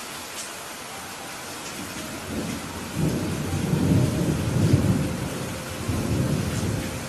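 Steady rain with a roll of thunder: a low rumble builds about two seconds in, swells twice, and cuts off near the end.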